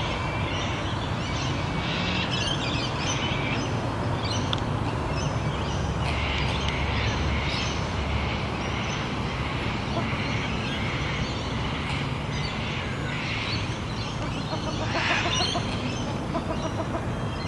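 Wild birds chirping repeatedly over a steady outdoor rumble.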